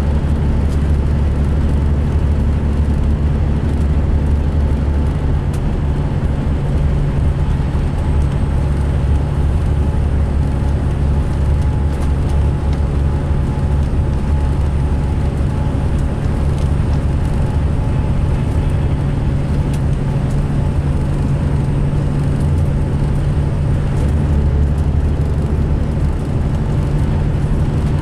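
2005 MCI D4500 coach's diesel engine running with a steady low drone, on a coach the uploader says sounded rough running and idling.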